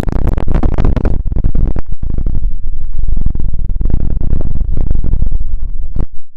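Loud, dense crackling and rubbing right against a microphone, pausing briefly about a second in and cutting off abruptly near the end.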